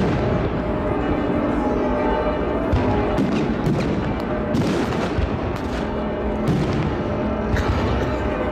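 Aerial fireworks shells bursting in a continuous barrage of bangs, one after another, over a deep rumbling roar, with music playing at the same time.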